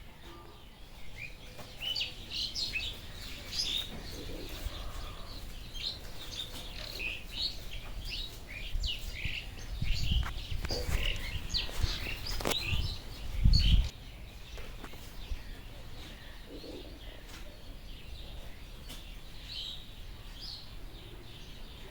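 Birds chirping in many short, rapid calls, busiest through the first two-thirds and thinning out near the end. Two low rumbles come about halfway and again around two-thirds in, the second one the loudest sound.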